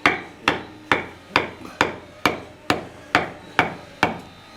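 Hammer blows struck at an even pace, about two a second, each ringing briefly; ten strikes, stopping about four seconds in.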